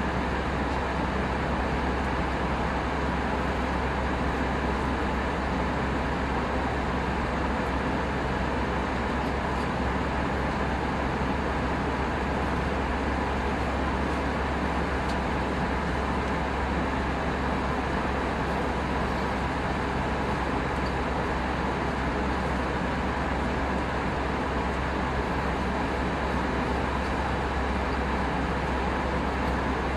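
Steady cabin noise inside an Airbus A319 airliner in flight: a constant rush of airflow over a deep engine hum, unchanging throughout.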